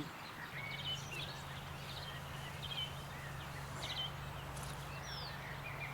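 Faint, scattered bird chirps outdoors over a steady low hum that sets in about half a second in.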